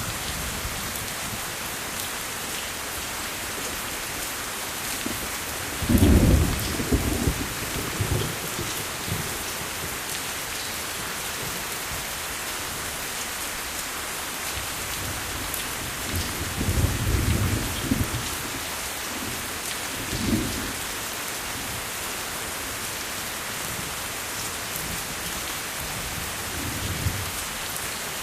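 Steady rain hissing, with rolls of thunder rumbling low about six seconds in, again around seventeen seconds, and more faintly near the end; the first roll is the loudest.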